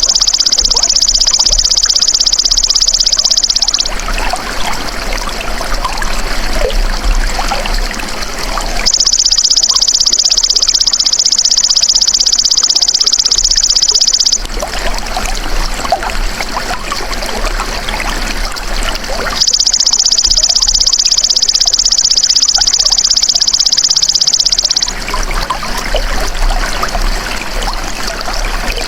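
A belalang emas ("golden grasshopper") insect calling with a loud, high, shrill buzz in bouts of about five seconds, separated by pauses of about the same length. Running water trickles steadily underneath.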